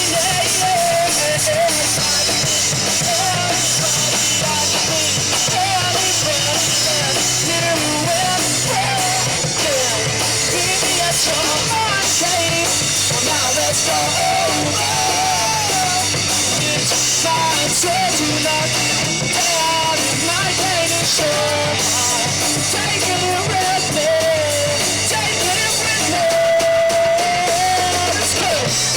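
Rock band playing live through a PA: electric guitar, bass and drum kit at full volume, with a wavering melodic lead line over them.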